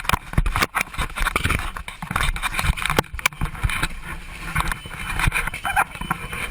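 Passenger's phone recording inside a small plane that has just ditched in the ocean: a rapid clatter of knocks and bangs over a constant rushing noise, as seawater comes into the cabin.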